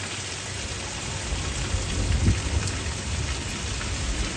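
Heavy rain pouring down, growing louder about a second in, with a deep uneven rumble underneath.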